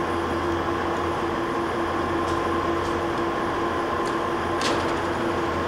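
A 1978 Mazak Rex gap-bed engine lathe running with a steady electric hum and whine while its carriage moves on rapid traverse. A few light clicks come through.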